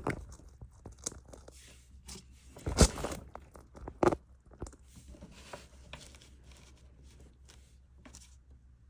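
Close-up handling of yarn and a crochet hook: rustling and light scraping with scattered small clicks. There are two louder knocks, about three seconds in and about four seconds in.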